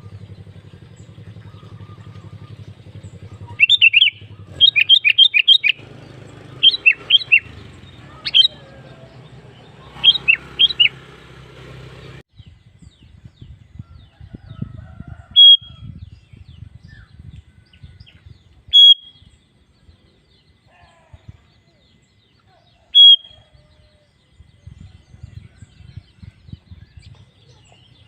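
Sooty-headed bulbul (kutilang) singing: several quick runs of bubbly whistled notes over the first ten seconds or so, then single short clear notes every few seconds. A low hum under the first part cuts off about twelve seconds in.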